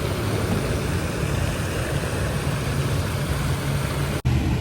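Steady low rumble and noise of a running motor vehicle, with no clear events, broken by an abrupt cut near the end.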